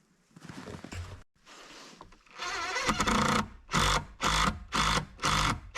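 A small power-tool motor, likely a drill/driver, runs in a longer burst and then in about four or five short bursts, roughly two a second.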